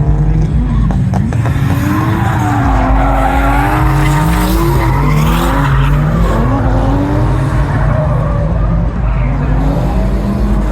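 Drift car engine revving up and down under throttle while its tyres squeal and skid; the tyre noise is heaviest from about two to six seconds in.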